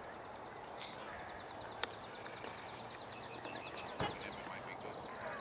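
A bird singing a long, even trill of rapid high notes, about ten a second, for roughly three seconds. A sharp click in the middle and a louder knock near the end.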